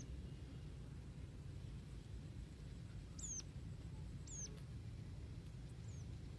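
A small bird giving short, very high-pitched chirps, each a quick downward sweep, four of them a second or more apart, over a low steady rumble.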